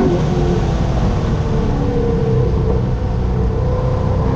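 Chevrolet Corvette C6 Z06's 7.0-litre LS7 V8 running hard on track. Its pitch drops right at the start, then holds steady and climbs slowly.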